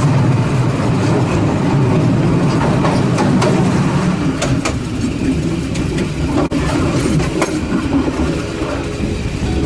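Train running along the track: a steady, loud rumble with irregular sharp clicks of the wheels going over rail joints.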